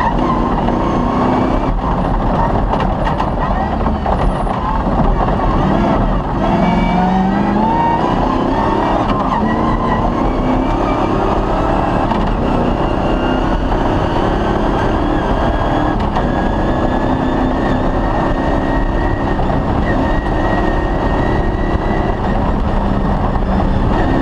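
Cross-country rally car driven hard on a special stage, heard onboard: its engine runs under load over constant loud rumble and rattle from the tyres and chassis. About a quarter of the way in, the engine pitch climbs steadily as the car accelerates, then holds fairly even.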